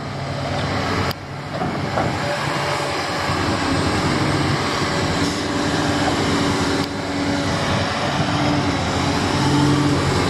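Heavy vehicle engine running, growing louder over the first two seconds, with a sharp knock about a second in.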